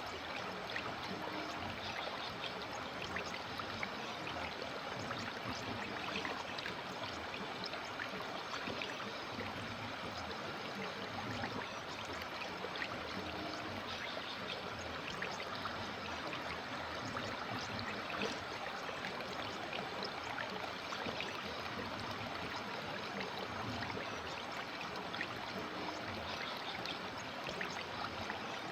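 River water flowing steadily over rocks, an unbroken burbling rush with small trickling splashes.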